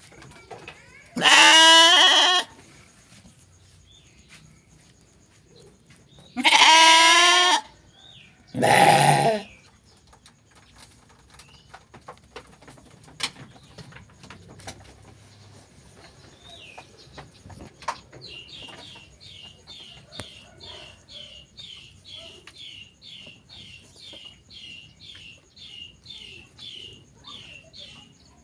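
A sheep bleating loudly three times in the first ten seconds, the last call shorter and lower. Later a faint run of short high chirps repeats about three times a second.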